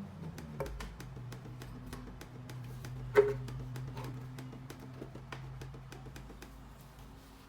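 Scattered light clicks and taps over a low steady hum, with one sharp knock about three seconds in.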